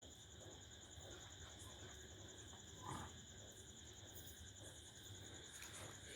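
Faint, steady high-pitched insect chirring, like crickets, with one brief soft sound about halfway through.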